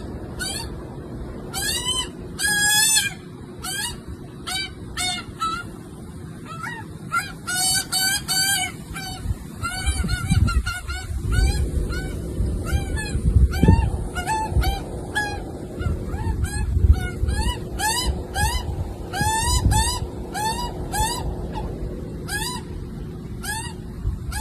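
Baby bird begging to be fed: short, nasal calls repeated rapidly, several per second, throughout. A low rumble runs underneath from about ten seconds in.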